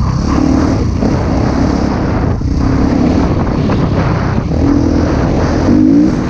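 Husqvarna TC 250 motocross bike engine revving hard, its pitch climbing and dropping again and again as the throttle is worked, over a constant rush of noise.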